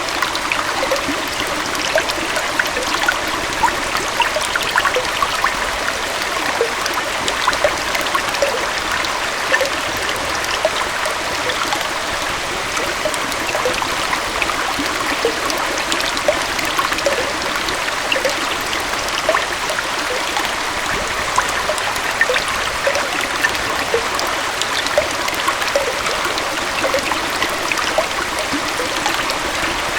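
Gentle small waterfall, its water flowing and splashing steadily, with many quick little plinks and bubbles over an even rush.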